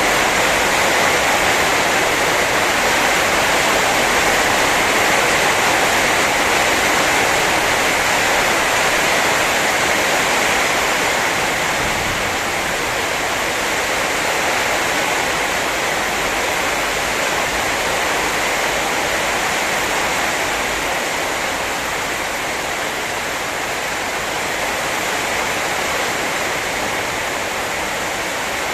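Heavy rain pouring down steadily in a storm, a continuous hiss that eases slightly about a third of the way through.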